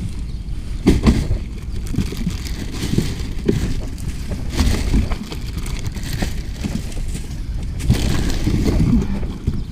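Rustling, crackling and knocking of items being handled and pulled out of a dumpster, over wind rumbling on the microphone.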